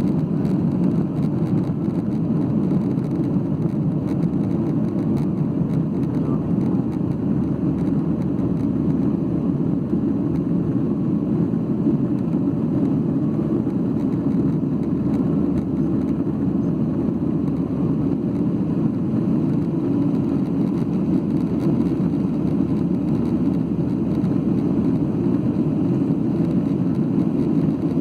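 Steady cabin drone of a Boeing 737-8 airliner in flight, its CFM LEAP-1B engines and the rushing air heard from a passenger window seat, a low even rumble with no change in level.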